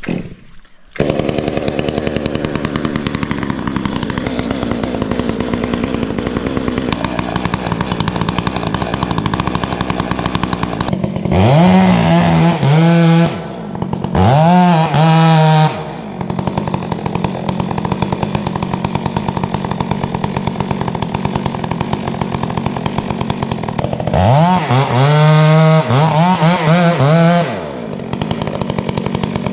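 Stihl chainsaw running at idle, then revved up three times as it cuts into a tree trunk: twice in quick succession near the middle and once for about three seconds near the end.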